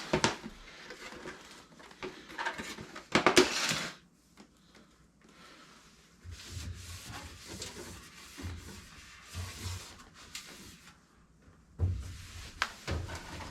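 Scattered knocks, clicks and rubbing from hands handling equipment, with a loud cluster of knocks about three seconds in and a few more sharp clicks near the end.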